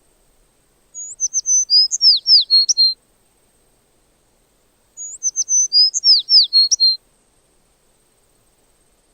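A songbird singing the same high, twittering phrase twice, each lasting about two seconds, with a two-second pause between them.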